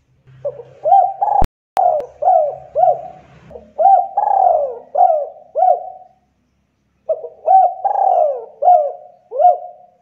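Spotted dove cooing: a run of repeated coos, a pause of about a second, then a second run.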